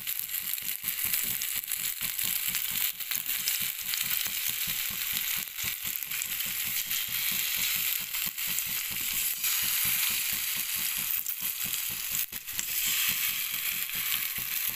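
Skewered, marinated paneer tikka sizzling in a little mustard oil in a frying pan over a low flame: a steady hiss with many small crackles and pops.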